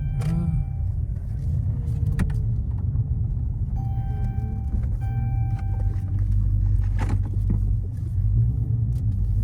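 Dodge Super Bee's 392 (6.4-litre) HEMI V8 running steadily at low speed, a continuous low rumble.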